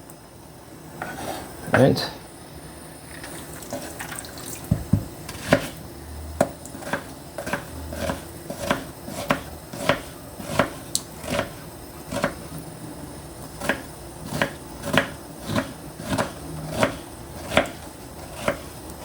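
Knife chopping on a cutting board, finely cutting vegetables, in a steady run of sharp strokes about two a second.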